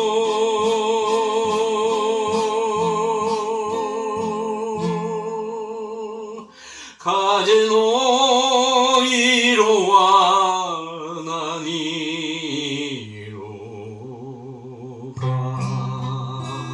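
Song: a singer holds a long note with vibrato, sings a second long phrase about seven seconds in, then the accompaniment plays on more softly toward the end.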